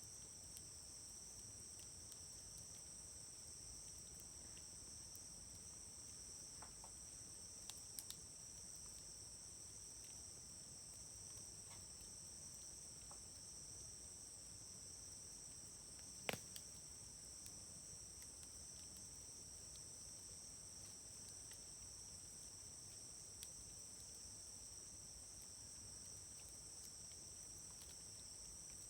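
Wood fire burning quietly with a few sharp crackles and pops, the loudest about halfway through, over a steady high chirring of summer insects.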